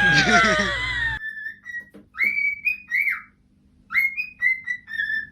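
A pet bird whistling in repeated phrases of short, clipped high notes, with gaps between the phrases. It follows about a second of gliding whistle-like tones that cut off abruptly.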